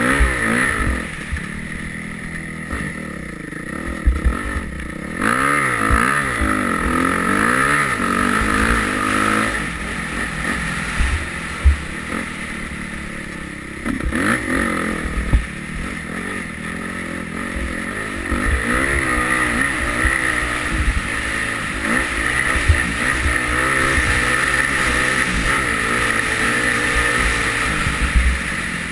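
Yamaha YZ250F four-stroke single-cylinder motocross bike's engine revving hard and easing off again and again, its pitch climbing and falling with each burst of throttle. Sharp knocks stand out now and then.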